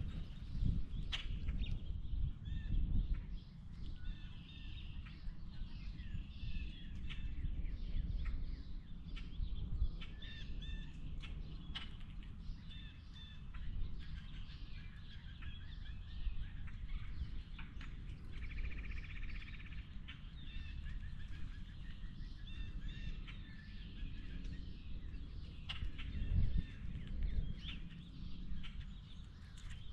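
Birds chirping and calling repeatedly, with a harsher buzzy call about two-thirds of the way through. Sharp taps come now and then, over a low rumble of wind on the microphone.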